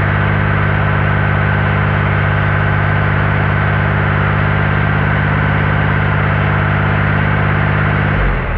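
Gehl paver's engine running steadily at a raised speed, driving its tracks with the machine jacked off the ground; the engine note drops away about eight seconds in.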